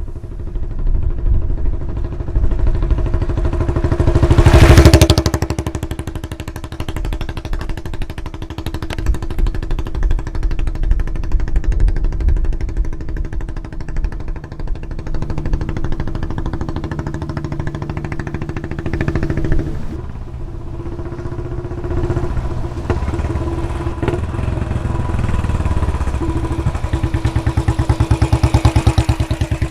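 Royal Enfield Bullet 500's single-cylinder engine running through a Punjab long bottle silencer, with an even beat of exhaust pulses. The bike passes close and loud about five seconds in, then runs on steadily, swelling again near the end.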